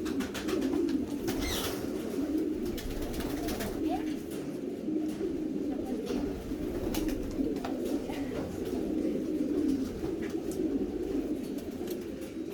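A flock of homing pigeons cooing together in a loft: many overlapping coos form a steady chorus, with scattered sharp clicks and flutters among them.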